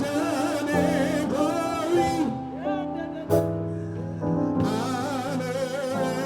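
Gospel worship song: sung vocal lines with vibrato over held keyboard chords, the voice pausing briefly midway, with one sharp click about halfway through.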